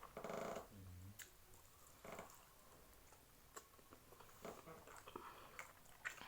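Quiet chewing and faint mouth clicks of someone eating fried chicken. A brief hum-like vocal sound is heard at the very start.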